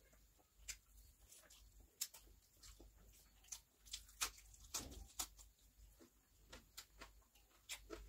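Quiet, close-miked chewing: an irregular string of sharp mouth clicks and smacks as biryani rice and a raw cucumber slice are eaten by hand, the busiest run coming about four to five seconds in.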